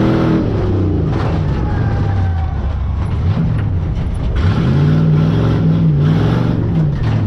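Stock pickup truck's engine revving hard, its pitch rising and falling several times, with a few sharp knocks in between.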